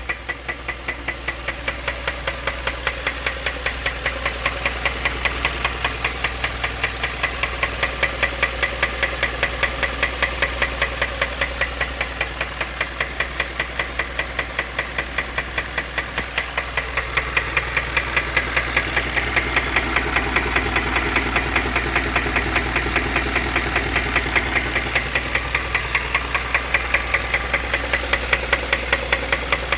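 2015 Kia Optima engine running with a steady, regular knock repeating a few times a second.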